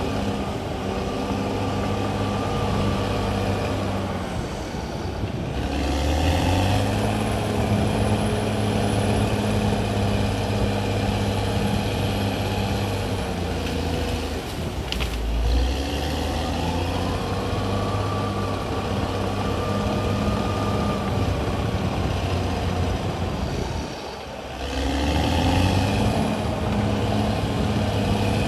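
CAT D6R XL bulldozer's diesel engine running hard and steadily. It dips and then revs back up about five seconds in and again near the end.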